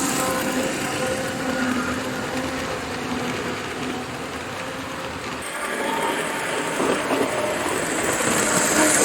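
Vintage TYCO SD24 model diesel locomotive running on its track. Its small pancake motor hums with a toy-like sound as it strains a bit to pull the freight train, and the wheels rattle on the rails. The sound is quieter in the middle and louder again near the end.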